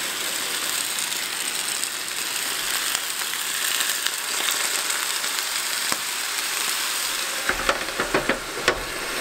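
Gyoza-style dumplings sizzling steadily in oil on an electric hot plate, with water poured onto the hot surface to steam-fry them. A few sharp clicks near the end as the hot plate's lid is handled.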